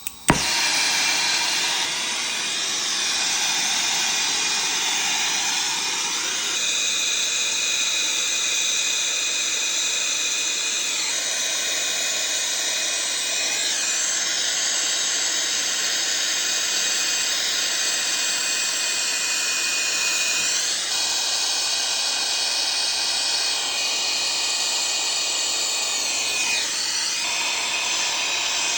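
A brazing torch flame hissing steadily while copper refrigerant line set joints are brazed; its pitch and tone shift a few times.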